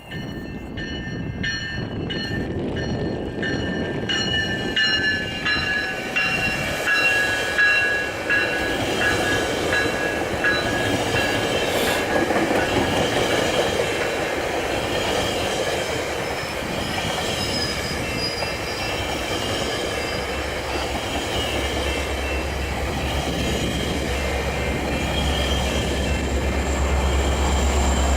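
GO Transit commuter train passing over a railway bridge: rumbling wheels on the rails with clickety-clack, and high-pitched wheel squeal that slowly drops in pitch and fades over the first half. A steady low drone sets in about three-quarters of the way through.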